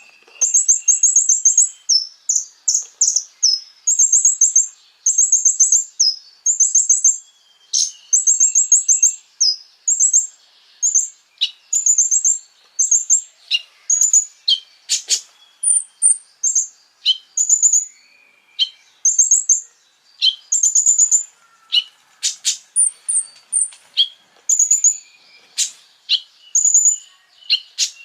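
Konin, a small songbird, singing: a rapid, continuous string of very high, thin chirps and short quick trills, each lasting a fraction of a second.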